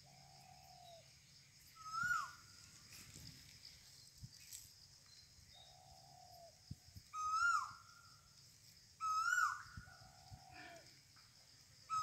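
A bird calling repeatedly. It gives a louder, higher hooked call four times and a softer, lower, slightly falling note three times in between, over a steady high whine in the background.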